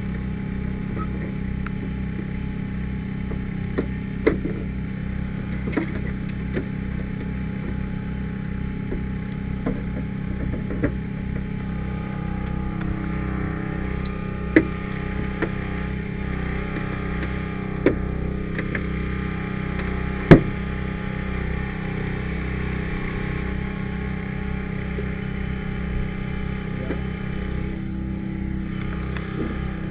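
Engine of a hydraulic rescue-tool power unit running steadily, with scattered sharp metal clanks and knocks from tool work on the car; the loudest clank comes about twenty seconds in.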